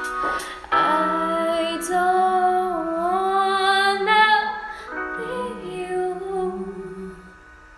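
A young woman singing long held notes without clear words, in two phrases with a slight waver in pitch; the second phrase fades out near the end.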